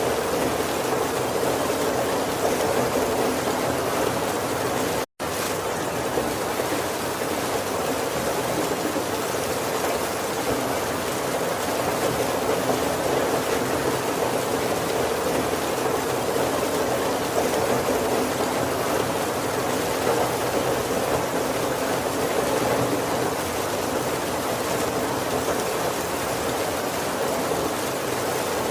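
Steady heavy rain falling on a roof, an even hiss of water with no thunder. About five seconds in, the sound cuts out completely for a split second and then resumes.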